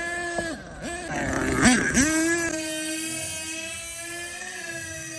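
HPI Savage X 4.6's two-stroke nitro engine buzzing at high revs. The throttle is let off and reopened three times in the first two seconds, then the engine holds a steady high note that slowly gets fainter.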